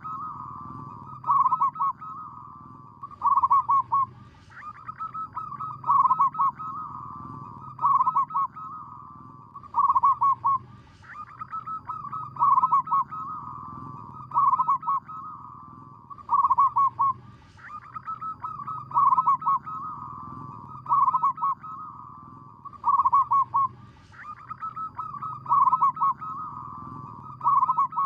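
Zebra dove (perkutut) cooing its rippling song over and over, one phrase about every two seconds.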